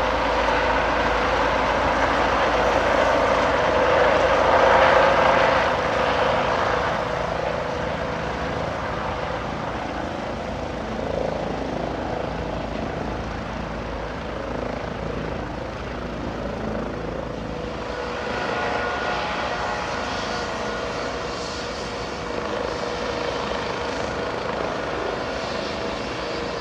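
Air ambulance helicopter running close by: turbine whine and rotor noise, loudest about five seconds in, then easing to a steadier, quieter running sound.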